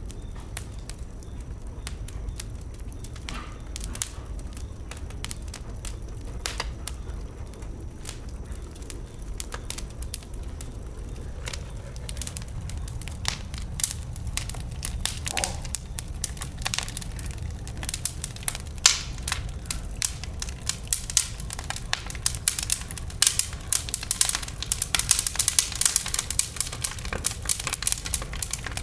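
Wood bonfire crackling and popping, sparse at first and growing denser and louder through the second half, over a low steady rumble.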